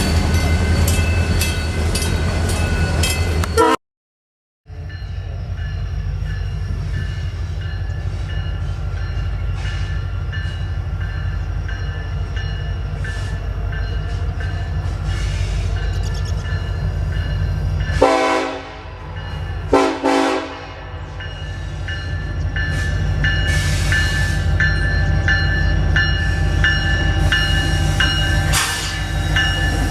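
A passing train runs with a steady low rumble, rhythmic clicking and steady high ringing tones. Two short train horn blasts sound about two-thirds of the way through. The sound cuts out completely for about a second near the start.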